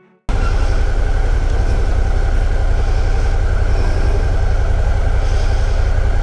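Motorcycle engine running with a steady low rumble, cutting in suddenly a moment after the start.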